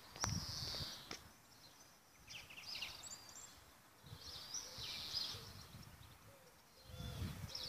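Faint songbirds chirping and singing in short phrases, a few seconds apart, with a few soft low thumps near the end.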